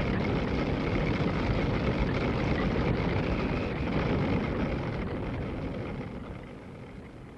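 Steady drone of woolen mill machinery running, fading out over the last few seconds.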